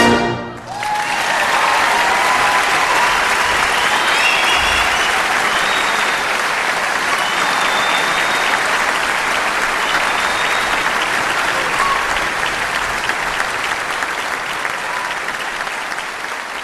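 Audience applauding a brass band solo. The band's last chord dies away in the first second, then the clapping is steady and slowly fades toward the end.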